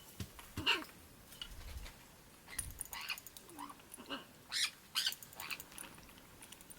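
Parrots giving short, scattered calls and squawks, several separate calls a second or so apart.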